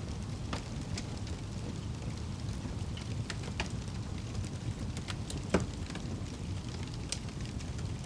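Wood fire burning with a steady low rumble and scattered crackles and pops, one louder pop about five and a half seconds in.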